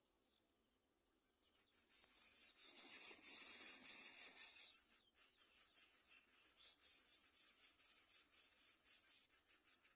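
Insects trilling: a loud, high-pitched, rapidly pulsing buzz that starts abruptly about a second and a half in and keeps going.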